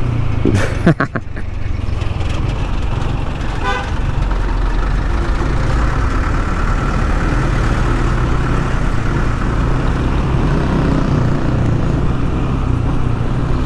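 Yamaha NMAX 155 scooter's single-cylinder engine running steadily while riding, with a loud, steady wind rush on the microphone.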